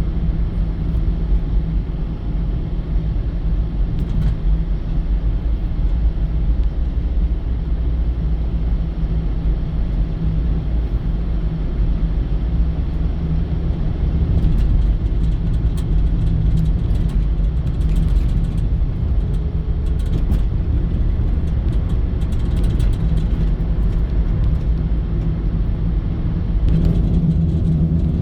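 Steady low rumble of a car on the move, engine and road noise, with a few faint clicks.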